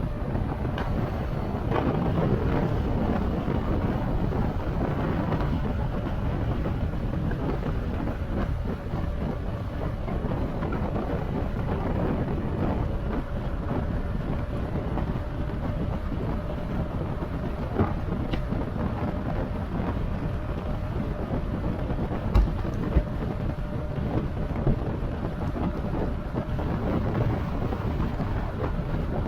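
Wind buffeting the microphone and road noise from a moving e-bike, a steady rushing with a faint steady tone underneath. A few sharp bumps come about three-quarters of the way through.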